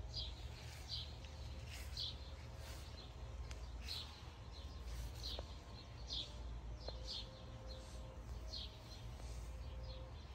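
Small birds chirping, short high chirps repeating about once a second, over a low steady outdoor background rumble.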